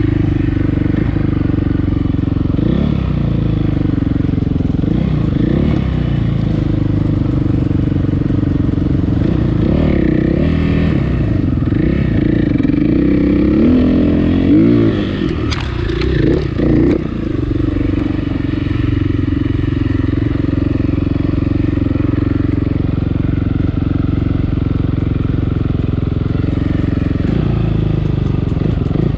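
Dirt bike engine running close by, mostly a steady drone. Around the middle the revs rise and fall repeatedly as the throttle is worked over rough, hilly trail.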